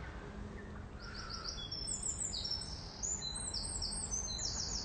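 A songbird singing a long, rapid phrase of short, high notes, starting about a second in, over a steady low background rumble.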